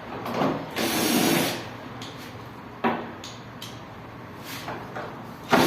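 Hand tools working on the fan motor mounting nuts inside an opened window air conditioner: a long noisy burst about a second in, a sharp metallic click near the middle, and another loud burst near the end.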